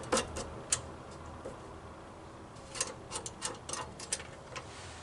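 Light, sharp clicks and ticks of small parts being handled on a mower, in two clusters: a few in the first second and a quicker run from about three to four and a half seconds in.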